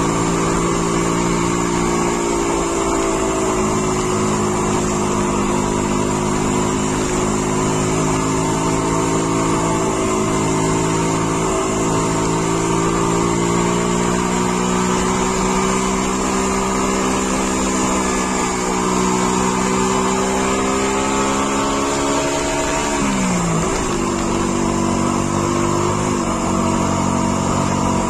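Car engine heard from inside the cabin while driving, pulling steadily with its note slowly rising. Near the end the engine note drops sharply twice, a few seconds apart, as gears are changed.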